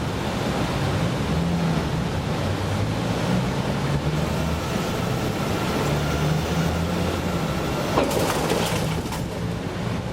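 Garbage truck's heavy diesel engine running steadily at low revs, its pitch shifting slightly, with a short metallic clatter about eight seconds in.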